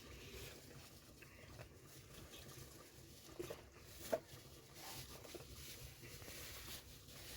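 Faint steady background noise with two soft knocks, about three and a half and four seconds in, the second the louder.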